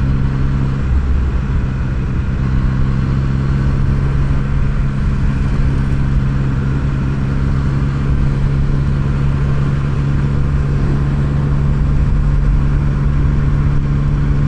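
Yamaha MT-09's three-cylinder engine running at a steady, unchanging pitch.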